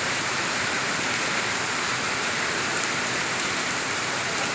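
Heavy tropical rain pouring down steadily, a dense, even hiss with no letup.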